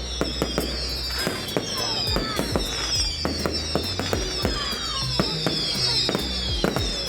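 Fireworks going off, a rapid run of bangs and crackles, with music playing over them.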